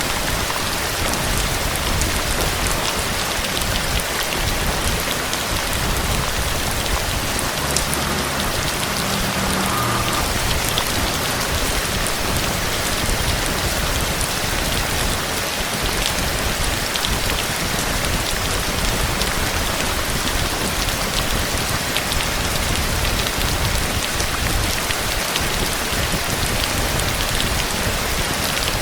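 Heavy, steady rain falling, with the scattered patter of individual drops striking a surface.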